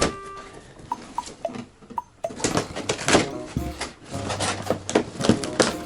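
Cardboard box and tape packaging being handled and pulled open: a run of crackles, rustles and knocks that grows busier about halfway through.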